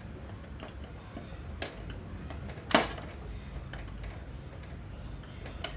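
A few short clicks and knocks over a low steady hum, with one sharp knock, the loudest, a little before halfway.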